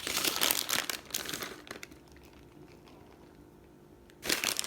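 Plastic packaging crinkling as it is handled, in a long rustling stretch over the first second and a half and again briefly near the end.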